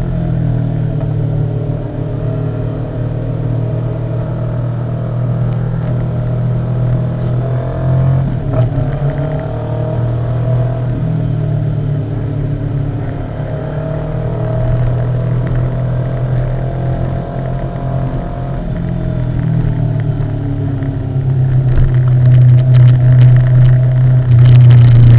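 Motorcycle engine running steadily while riding, its note shifting a little now and then and getting louder near the end.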